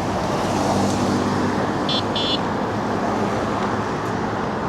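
Steady road traffic noise heard while cycling along a road, with two short high beeps close together about two seconds in.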